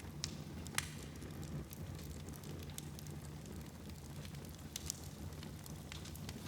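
Wood fire burning in a fireplace: a steady low rumble of flames with scattered sharp crackles and pops, the loudest about a second in and another near the end.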